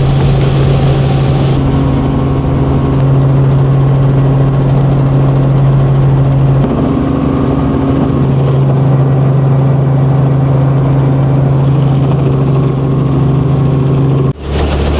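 Helicopter engine and rotor noise heard inside the cabin in flight: a loud, steady low drone with a constant hum. It cuts suddenly to a deeper drone near the end.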